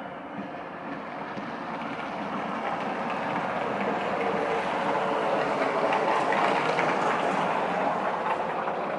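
Rumbling noise of a passing vehicle that grows louder to a peak about six seconds in, then eases slightly.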